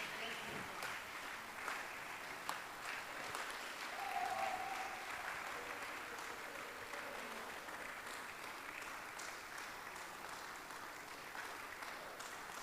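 Congregation applauding steadily and fairly faintly, an even patter of many hands clapping.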